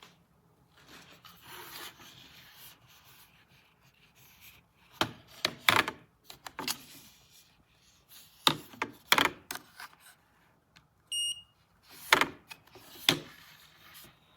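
Handling of a RANVOO neck cooler: sharp plastic clicks and knocks in several clusters, and one short electronic beep about eleven seconds in.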